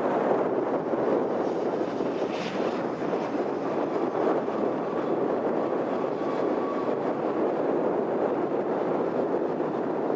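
Steady rushing noise from a Boeing 737 MAX 8's CFM LEAP-1B jet engines as the airliner lands, with a faint whine in the middle.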